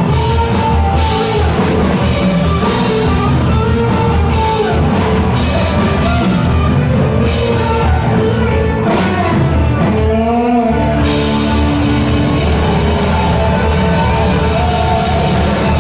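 Live rock band playing loud, with electric guitar, bass, drums and singing.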